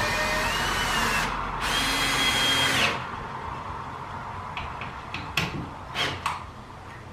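Power drill running in two bursts with a rising whine, stopping briefly just after a second in and cutting off near three seconds, followed by a few sharp clicks.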